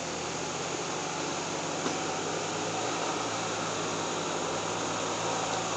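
Ford Bronco Sport small SUV's engine running steadily at low speed as it crawls over dirt mounds: a low, even hum under a broad hiss.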